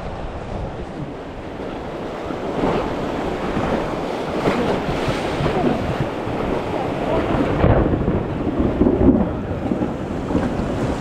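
Steady rush of water with gusting wind buffeting the microphone, swelling louder in the second half.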